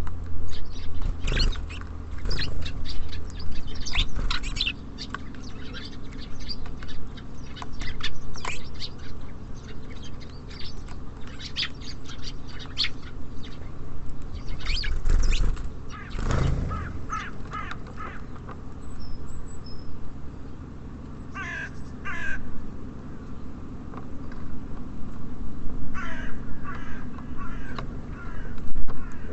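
Birds at a feeder: many quick short chirps and taps through the first half, then two bouts of harsh cawing calls, one about two-thirds of the way through and one near the end, over a steady low hum of city traffic.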